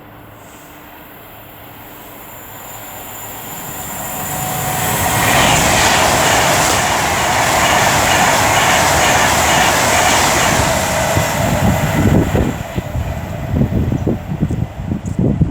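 An Avanti West Coast Class 390 Pendolino electric train passing through: a rushing noise that builds over a few seconds and stays loud for about six seconds. It then gives way to gusty wind buffeting the microphone in the train's wake.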